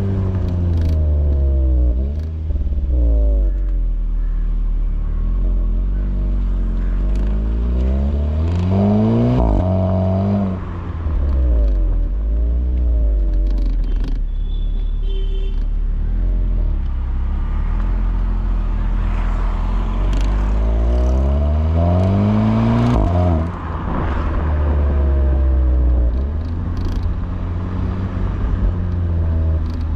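Volkswagen Polo GTI's 1.8 TSI turbocharged four-cylinder engine and exhaust on a drive. The engine pulls up in pitch under acceleration twice, each time dropping back with a brief dip at the gear change, about ten and twenty-three seconds in, and settles or falls in pitch in between.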